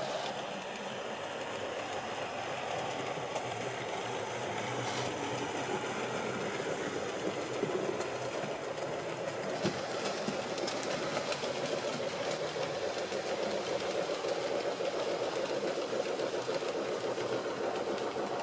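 Model train running on its track, a steady mechanical running noise of motor and wheels that grows slightly louder after the first few seconds.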